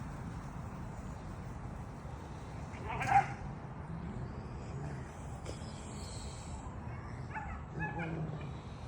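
German Shepherd puppies crying: one short, loud high cry about three seconds in, then a few shorter whimpering calls near the end.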